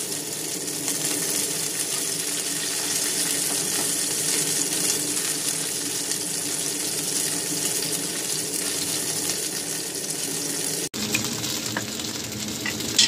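Chicken wings sizzling as they fry in a pan, a steady hiss that cuts out abruptly for an instant near the end.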